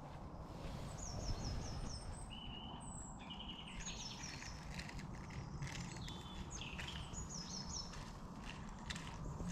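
Woodland birdsong from several small birds, one repeating a quick run of four or five high notes a few times, over a steady low rumble.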